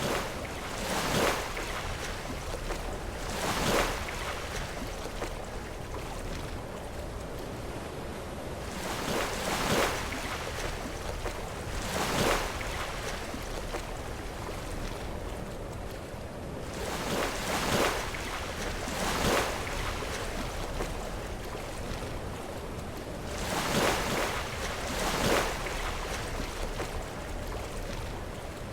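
Sea waves crashing into rocks over a steady wash of surf. The crashes come as about eight brief surges, often in pairs a second or two apart.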